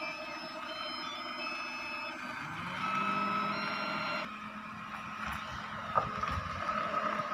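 Maruti Suzuki Zen hatchback's engine running and revving up about two and a half seconds in as the car moves, with a string of short, high electronic beeping notes in a stepping melody over the first half. Just past four seconds the sound changes abruptly to a steadier engine hum, with one sharp click near six seconds.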